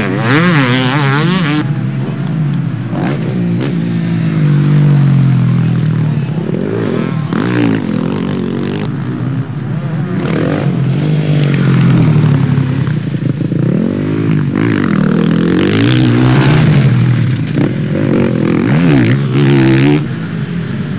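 Motocross motorcycles racing, their engines revving up and down over and over as they accelerate and change gear, several bikes overlapping.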